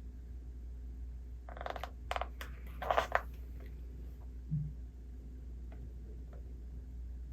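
A book's page being turned: a few crackly paper rustles about a second and a half in, followed by a soft thump, over a steady low room hum.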